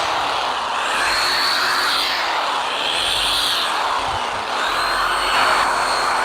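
Corded Porter-Cable reciprocating saw with a Diablo wood-cutting blade cutting through a cashew tree branch. The motor runs continuously, its pitch dipping and recovering as the blade bites into the wood.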